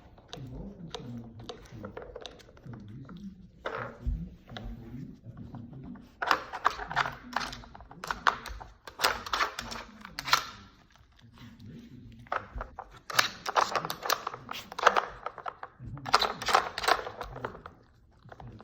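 Pieces of a dog puzzle toy clicking, knocking and rattling as a dog noses and paws at them, in four bursts of busy clatter. Quiet talking runs underneath.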